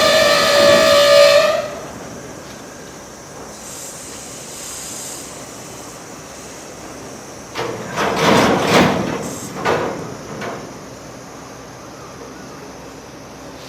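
A freight locomotive's whistle gives one steady high blast that stops abruptly a couple of seconds in. About eight seconds in comes a run of clanks and bangs from the train's wagons and couplings, lasting about three seconds.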